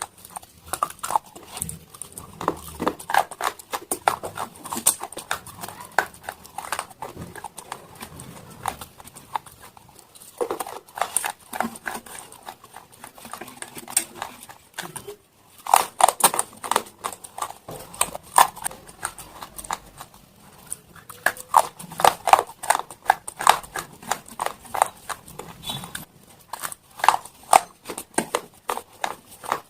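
Close-miked chewing of slate stone: rapid, dense crunching cracks in bursts, with short lulls about 10, 15 and 20 seconds in.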